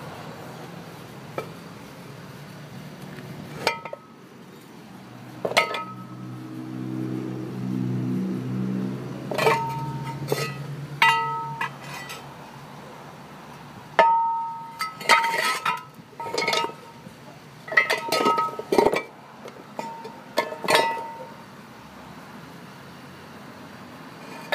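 Car brakes squealing in a string of short, ringing squeaks, coming thicker in the second half; the brakes have only just begun to squeak.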